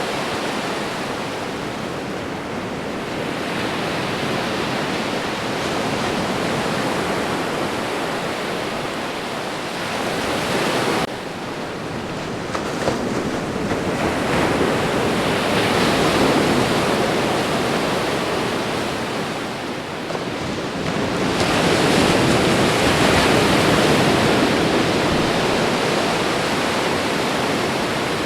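Ocean waves breaking and washing onto shore in a continuous rush of surf. It swells and eases every several seconds, with the biggest surges about halfway through and again a few seconds before the end.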